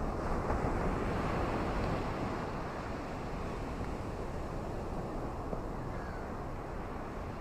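Ocean surf washing in as a steady rush, swelling slightly in the first couple of seconds and then easing.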